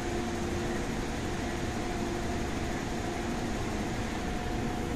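Steady hum and rumble inside an MTR Tung Chung Line A-Train carriage, with a few even tones that hold their pitch.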